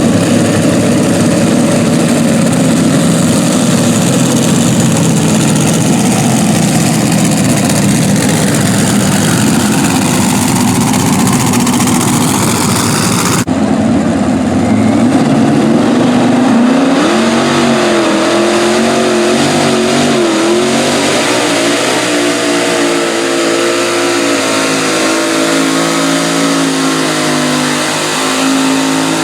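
Super modified pulling tractor's engines running at full power under load during a pull, loud and dense. About halfway through there is an abrupt change to engine tones that waver up and down in pitch, as the engines are throttled up and down.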